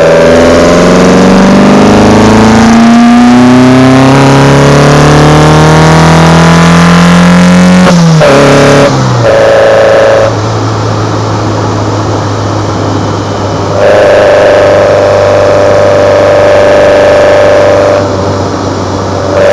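Kadett GS 16v engine heard at its side-draft Solex C40 ADDHE carburetors, rising steadily in pitch under acceleration for about eight seconds, then dropping sharply. It then runs at a steady pitch, its loudness stepping down and back up twice.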